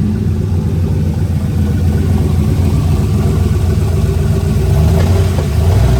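Turbocharged LS V8 in a Ford Fairmont running loud and steady, its pitch wavering slightly toward the end.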